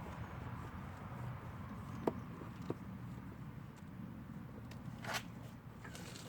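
Handling noise as a garden hose is fitted to a boat's flush earmuffs: two light clicks and a short scrape, over a low steady rumble.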